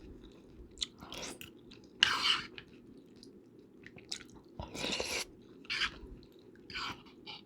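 Close-miked chewing and mouth sounds of a person eating, in short irregular bursts about every second, the loudest about two seconds in, over a steady low background hum.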